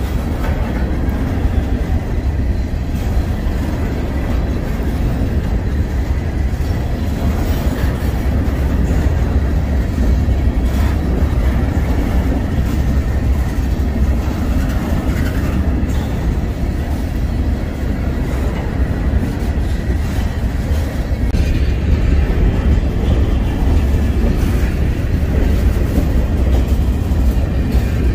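Freight train rolling past: a steady, loud rumble of wheels and cars on the rails.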